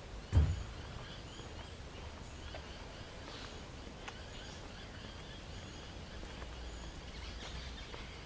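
Birds calling in bushland, with quick chirping trills repeating throughout, over a low rumble of wind on the microphone. A short, loud low thump comes about half a second in.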